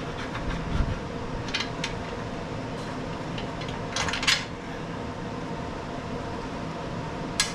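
Metal clinks and taps of engine mounting bolts and a wrench being handled while an engine is bolted down to its frame: three sharp clinks a few seconds apart, the loudest a quick double clink near the middle.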